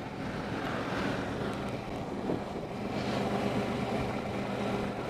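Motorcycle engine running steadily at low road speed, with wind buffeting the on-bike microphone.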